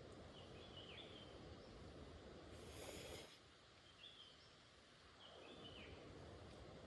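Faint steady rain hiss, with a few short high bird chirps. About three seconds in, a brief louder hiss swells up, then the rain drops quieter for a couple of seconds.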